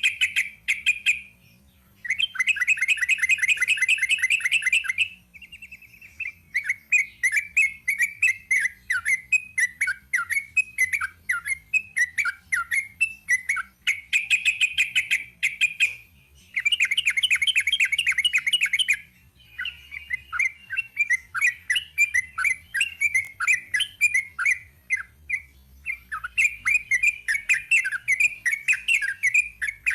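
Yellow-vented bulbul (trucukan) singing a long, rapid run of chirps: dense bursts of fast repeated notes alternate with strings of separate chirps, with a few brief pauses.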